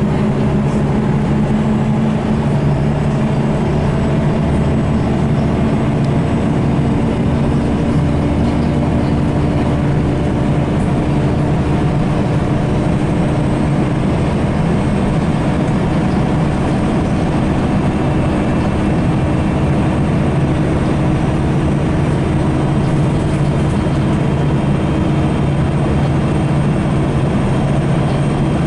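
Scania L94UB Wright Solar single-deck bus's diesel engine running steadily, a constant low drone with road noise.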